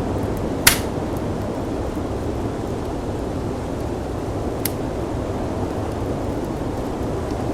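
Steady low rush of snowstorm wind, with the sharp pops of a crackling firepit now and then, the loudest about a second in and another weaker one about halfway.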